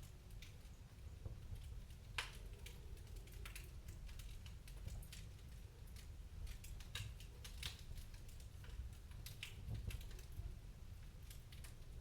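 Wood fire crackling: irregular sharp pops and snaps over a low steady rumble, the loudest pop about two seconds in.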